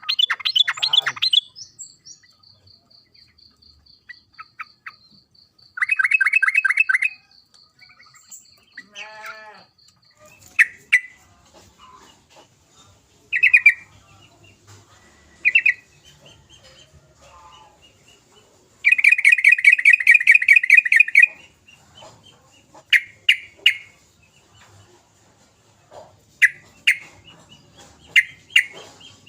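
Yellow-vented bulbul giving rapid, rattling chatter calls in separate bursts. The longest burst lasts about two seconds, past the middle, and short calls come between the bursts. A faint steady high-pitched buzz runs through the first third.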